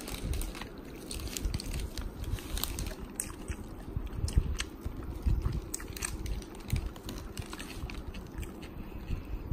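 A person chewing a mouthful of soft-bun egg burger close to the microphone: irregular wet chews with small mouth clicks.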